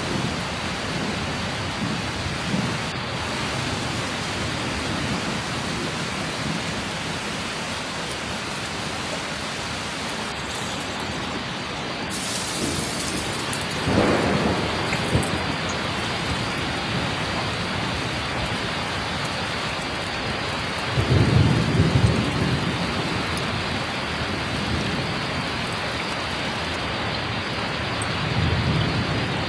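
Heavy rain pouring down hard and steadily. About halfway through, a car splashes through deep standing water, and louder low rumbles follow a few seconds later and near the end.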